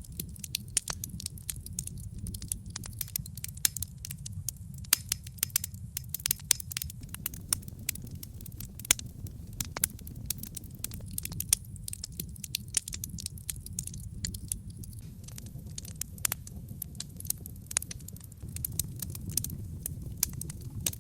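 Wood fire burning in a brick fireplace: many quick, irregular crackles and pops from the burning logs over a steady low rumble of the flames.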